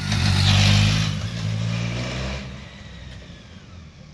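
BMW K1200GT motorcycle's inline-four engine running as the bike rides past close by and pulls away, loudest in the first second and fading about two and a half seconds in.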